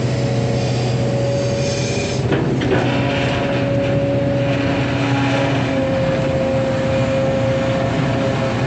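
Hydraulic excavator working: its diesel engine running steadily under a whine from the hydraulics that shifts slightly in pitch, with a couple of knocks about two and a half seconds in.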